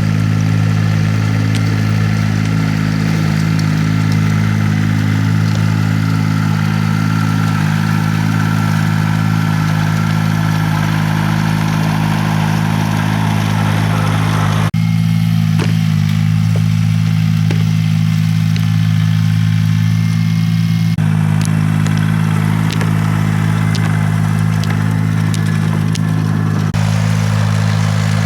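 Engine of a farm land-milling (rotary tilling) machine running steadily at constant speed. The background noise over it shifts abruptly about halfway through and twice more near the end.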